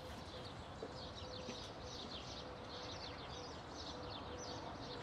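Faint birdsong: small birds chirping steadily in many quick, short, falling notes over a soft outdoor hush.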